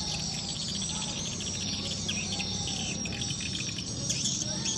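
Swiftlet twittering: a dense, rapid chatter of high chirps, the lure call used to draw swiftlets into a swiftlet house, with a low steady hum underneath.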